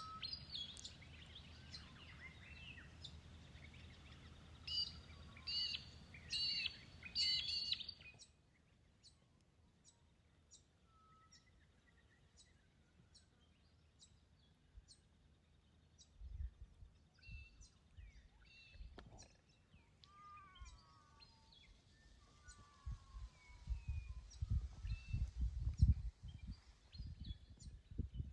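Wild birds calling in the bush: several kinds of chirps, whistles and sliding calls, thicker and louder for the first eight seconds, then sparser with a regular high ticking call. Low rumbling comes in about two-thirds of the way through and grows near the end.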